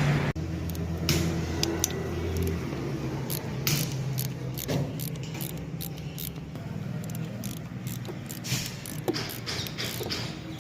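Metal hand tools clinking and clicking against metal as engine bolts are undone, a string of irregular short clinks over a steady low engine hum in the background.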